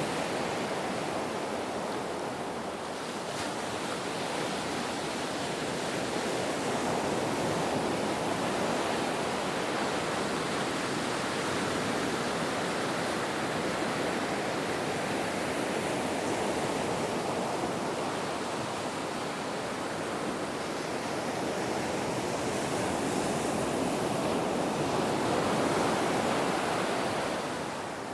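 Ocean waves washing onto a shore: a continuous rush of surf that swells and eases slowly, rising to its loudest near the end before dropping back.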